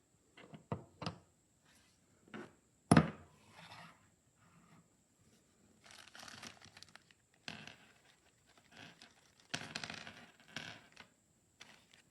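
Handling noises: a few sharp clicks, a loud thunk about three seconds in, and several stretches of scraping and rustling.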